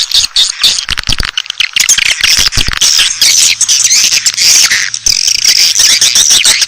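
Swiftlet calling sound: dense, loud twittering chirps mixed with rapid clicking from many swiftlets, the lure call played to draw swiftlets to a nesting house.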